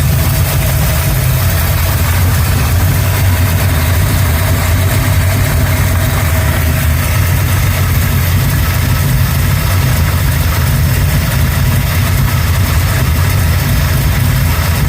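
Car engine idling steadily and loudly, running on a newly fitted MSD 6AL ignition box that replaced a faulty MSD 6A ignition.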